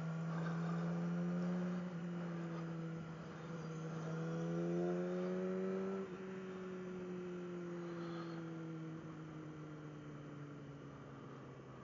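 600 cc motorcycle engine running under way: its pitch climbs as it accelerates, drops sharply about six seconds in, then sinks slowly as the bike slows.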